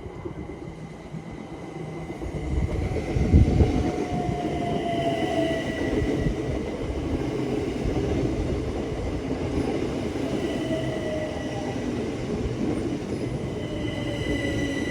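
Electric multiple-unit train running on third-rail track: wheel and rail rumble builds over the first few seconds and then holds steady. Over it sit a steady high whine and several falling whining tones.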